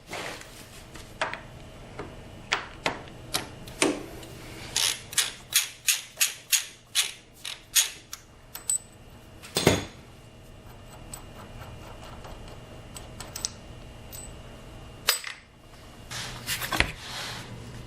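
Hand tools clicking and knocking on metal during motorcycle chain and sprocket work. In the middle comes a quick run of about a dozen sharp strikes, roughly three a second, with single knocks before and after.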